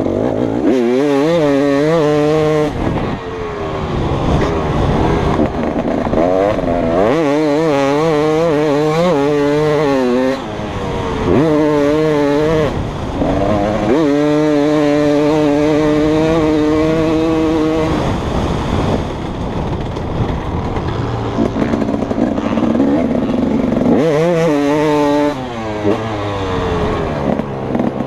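2015 KTM 250 SX single-cylinder two-stroke motocross bike ridden on a track. The engine revs up again and again with a wavering pitch and backs off between the pulls, holding a steady high rev for a few seconds in the middle.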